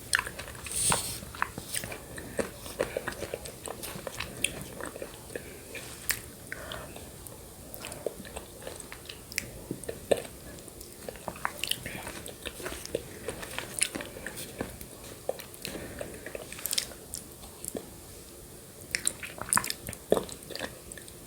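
Close-miked eating sounds: irregular wet mouth clicks, smacks and soft chewing of yogurt with shredded coconut.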